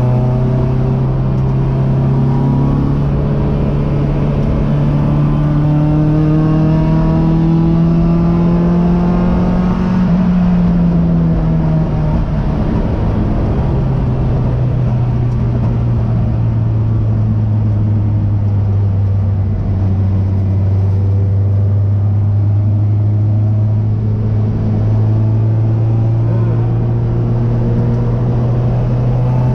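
Race car engine heard from inside the cockpit. The revs climb slowly for about ten seconds, drop sharply, then ease gradually lower.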